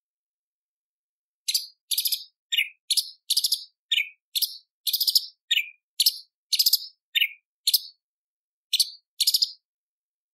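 Cucak cungkok leafbird singing a quick run of short, sharp, high chirps and buzzy phrases, some swooping down in pitch. It starts about a second and a half in and stops shortly before the end.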